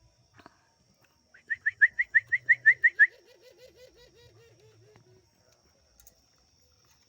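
Caged birds calling: a quick run of about a dozen loud, sharp, high notes lasting about a second and a half. A lower, rolling trill overlaps its end and runs on for about two seconds more.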